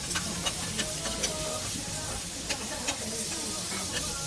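Pork belly and makchang sizzling on a tabletop grill: a steady hiss with sharp, irregular pops and crackles of spattering fat, a few each second.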